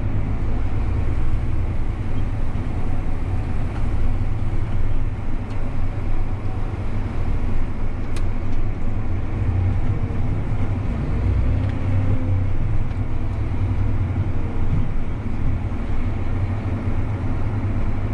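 Farm tractor's diesel engine running steadily under way, heard from inside the cab as a constant low drone.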